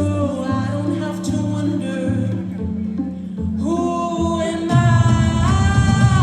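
Live pop song performance: a female singer holding and sliding between long notes over a backing track, with a heavier bass beat coming in about five seconds in.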